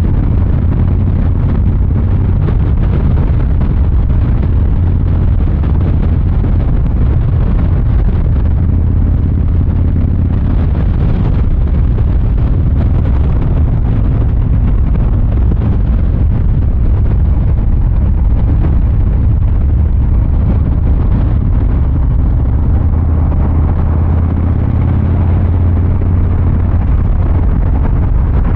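Harley-Davidson Fat Boy 114's Milwaukee-Eight V-twin engine and exhaust running steadily under way, a loud, deep, even note with no sharp revving.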